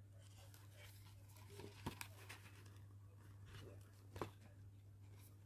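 Faint rustling and a few light ticks of a pop-up book's card pages being handled, over a low steady hum.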